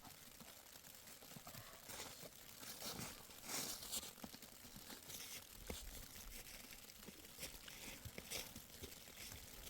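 Faint, irregular rustling and crinkling with scattered crunching crackles, loudest about three and a half seconds in: something dry or crisp being handled or trodden on.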